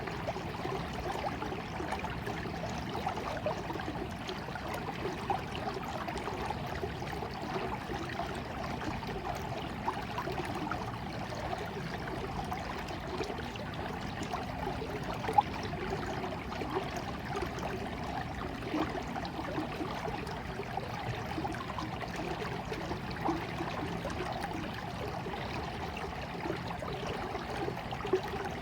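Small stream of water flowing and trickling steadily, with many small burbles and gurgles. A brief, louder splash or pop comes about halfway through.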